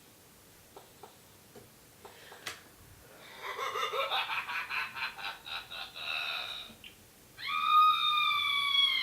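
A high voice-like sound: a fast pulsing run rising in pitch like a giggle, then, after a short pause, one long high drawn-out cry that slowly falls in pitch.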